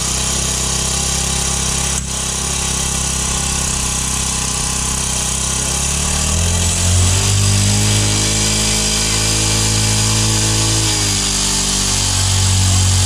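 Small gasoline engine of a concrete power tool running steadily at high speed; its note changes and grows stronger about six seconds in, as if under a change of throttle or load.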